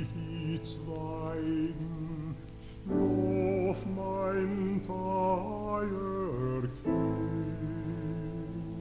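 A slow Yiddish lullaby sung by a male voice in a classical, operatic style, in long held phrases with instrumental accompaniment.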